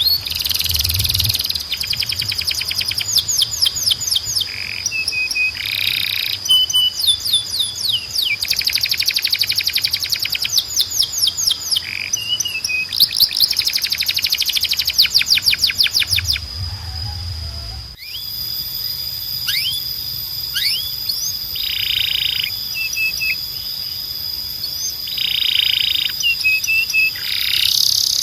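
Domestic canary singing: fast rolling trills of rapidly repeated high notes, broken by short harsh bursts, over a steady high whistle-like tone. The song breaks off abruptly about two-thirds of the way through and then starts again.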